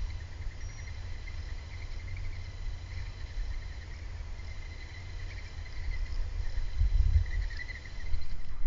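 Insects chirping in repeated trills over a steady low rumble.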